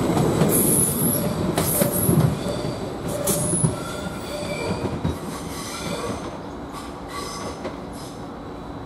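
Greater Anglia Class 755 bi-mode train pulling out, its wheels squealing on the rails with sharp clicks over a steady rumble. It grows quieter as it draws away.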